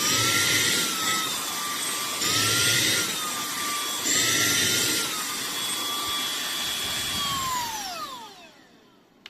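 Cordless handheld vacuum cleaner running: a steady motor whine under a rush of air that swells three times, about two seconds apart. Near the end it is switched off and the whine falls away as the motor spins down.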